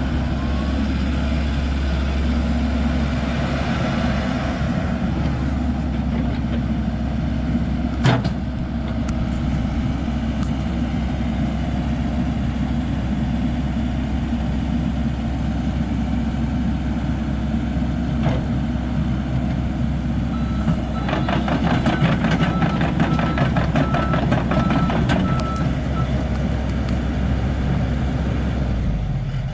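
Komatsu PC78US-10 excavator's diesel engine running steadily, with a sharp knock about eight seconds in. About twenty seconds in, a repeating warning beep, typical of the machine's travel alarm, sounds for several seconds over a fast metallic clatter.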